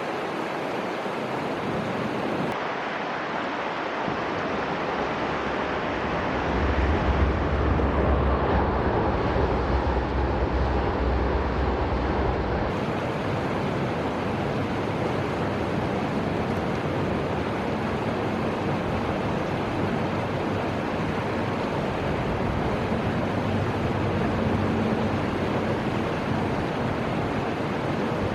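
Steady rushing noise of the river's flowing water and wind. A deeper rumble swells for several seconds, starting about a quarter of the way in, then drops away.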